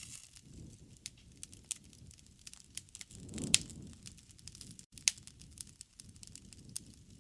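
Wood fire crackling: a steady scatter of sharp pops and snaps over a low flutter of flames, with the loudest pop about three and a half seconds in and another strong one about five seconds in.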